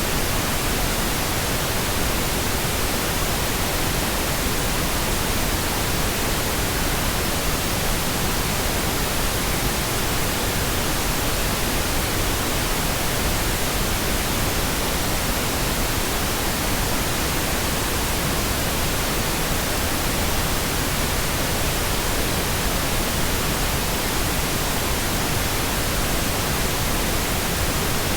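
Synthetic pink noise: a steady, unchanging hiss spread evenly across low and high pitches.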